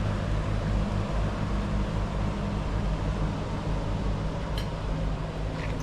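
Steady low engine hum under an even hiss of wind and water, with two faint clicks near the end.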